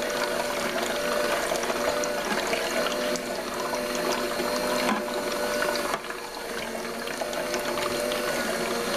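Electric slow juicer running: a steady motor hum with dense crackling and clicking as its auger crushes oranges. The level dips briefly about six seconds in.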